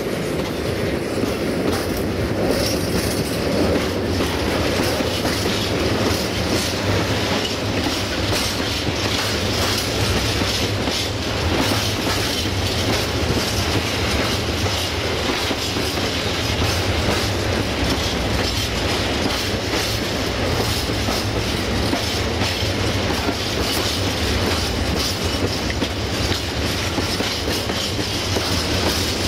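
Freight train tank wagons rolling past, wheels giving a steady clickety-clack over the rail joints with a continuous rumble and rattle of bogies.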